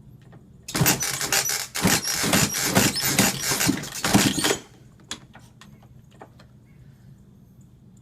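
2003 Yamaha YZ250 two-stroke being kick-started, the engine turning over for about four seconds without firing; the tank has no fuel in it.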